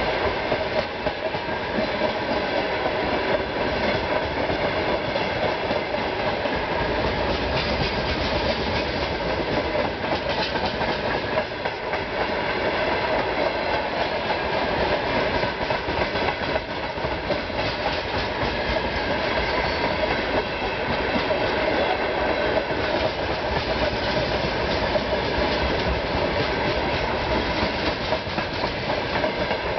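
Freight train of open freight wagons passing close at speed: a steady rumble and clatter of steel wheels running over the rails and joints, clickety-clack, with no break.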